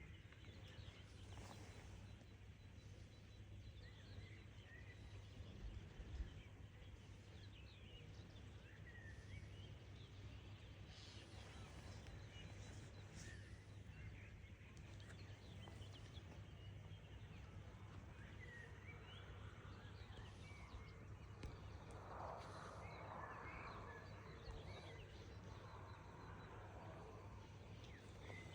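Faint morning bird chorus: many short, scattered chirps from several small birds, a little busier about three quarters of the way through, over a steady low hum.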